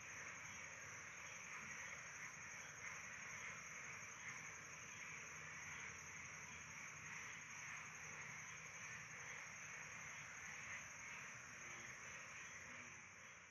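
Near silence: a faint, steady hiss of quiet background ambience.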